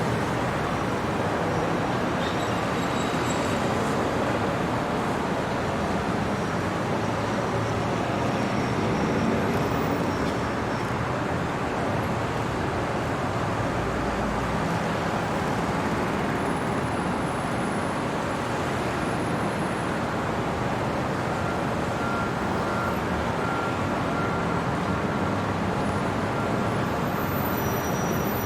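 Steady hum of city traffic at night, with a few faint brief high tones here and there.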